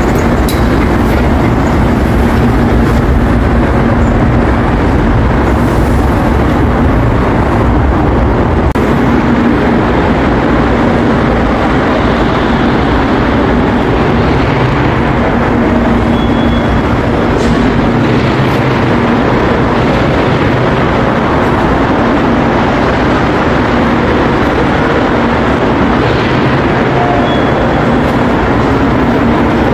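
Subway train running, heard from inside the car: loud, steady running noise with a faint low hum underneath.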